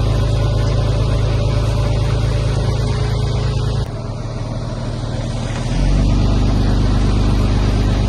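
Heavy diesel engine of earthmoving equipment running steadily. It drops away abruptly about four seconds in, then comes back louder and deeper about two seconds later.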